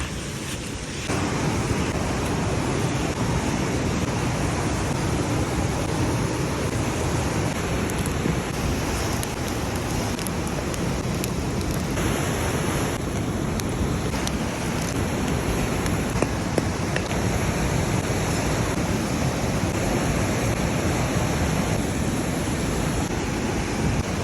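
Steady rushing noise, even and unbroken, with a few faint clicks and a small jump in level about a second in.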